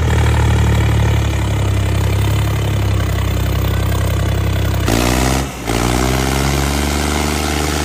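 Diesel tractor engine running steadily. About five seconds in, its note shifts and briefly dips in level.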